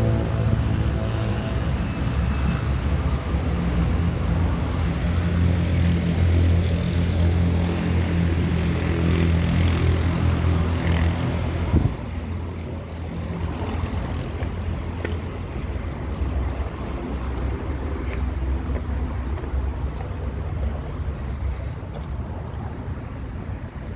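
A motor vehicle's engine running nearby, a low steady hum that drops away about twelve seconds in, leaving general street traffic noise.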